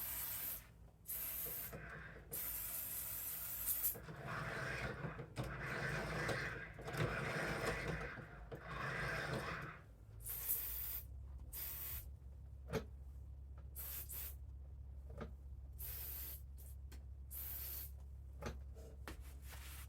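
Aerosol can of Fluid Film lubricant sprayed in a series of short hissing bursts into the snowblower's mechanism. There is a spell of rubbing and handling noise in the middle, over a steady low hum.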